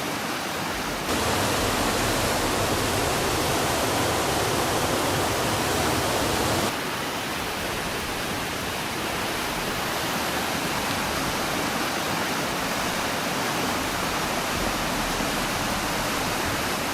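Floodwater rushing through city streets in a steady, dense roar of water, louder from about one second in to about seven seconds in, where the level steps up and down abruptly.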